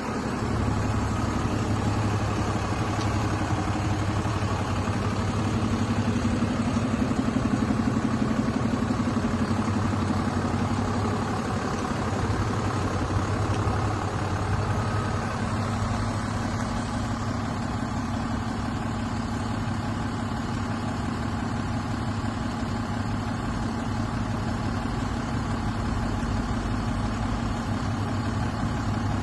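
DAF CF 290 truck's six-cylinder diesel engine idling steadily, with a slight swell in engine note for a few seconds early on.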